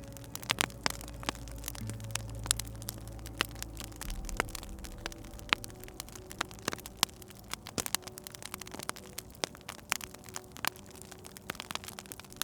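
Wood fire crackling, with frequent irregular sharp pops and snaps over a low steady hum.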